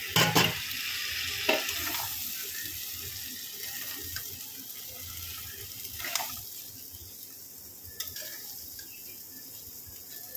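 Prawns and taro stolons frying in a kadai with a steady sizzle. A spatula stirs and knocks against the pan, with a loud clatter right at the start and lighter knocks a few times after.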